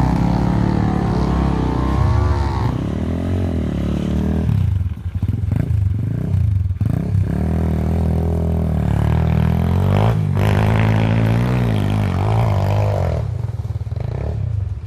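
Small four-stroke dirt bike engine revving as it is ridden, its pitch rising and falling again and again, with a few brief drops about halfway through.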